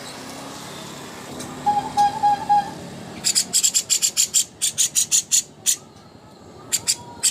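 A songbird calling: a brief run of low whistled notes, then a fast series of sharp, high-pitched chirps, about five a second, that stops briefly near the end and starts again.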